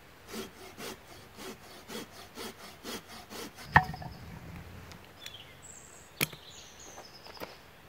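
Dead branch for kindling being cut with about eight even back-and-forth strokes, roughly two a second, like a small saw. Then the wood snaps with a loud sharp crack just under four seconds in, and a second crack comes a couple of seconds later.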